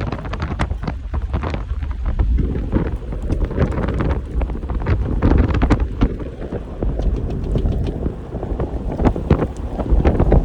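Strong wind buffeting the microphone in gusts, a heavy low rumble, with many short sharp ticks scattered through it.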